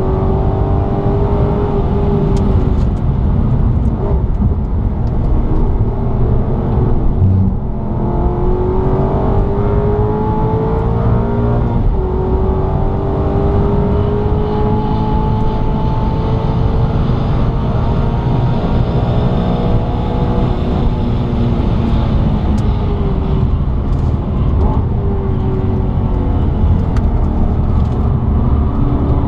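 Maserati GranTurismo MC Stradale's V8 engine under hard acceleration, heard from inside the cabin. Its pitch climbs, drops sharply about seven and a half seconds in and again about twelve seconds in, and climbs again each time, then holds steadier later on.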